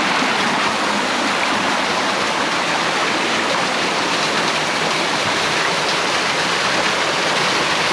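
Fast-flowing stream water rushing, a steady even hiss with no break.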